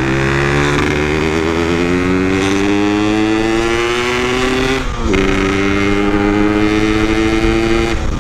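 Yamaha RX-King's 135cc single-cylinder two-stroke engine pulling under way, its pitch rising slowly, dipping at a gear change about five seconds in, then holding steady. The engine is not yet fully warmed up and, in the rider's words, still running too wet.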